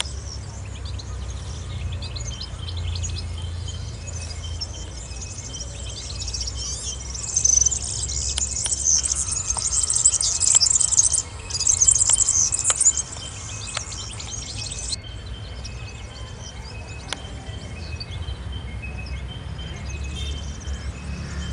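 Many small birds chirping and twittering together, densest and loudest for a few seconds midway, then thinning out suddenly. A steady low rumble runs underneath.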